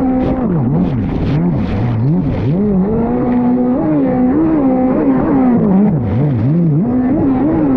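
Fast Powersports F16 dirt bike engine under riding load, revs swinging up and down about once a second as the throttle is worked and gears change, with a longer held pull about two to three seconds in.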